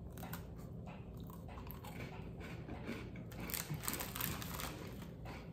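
Biting into and chewing an almond and pistachio butter cookie: a quick run of short crunches, loudest and most frequent about three and a half to four and a half seconds in.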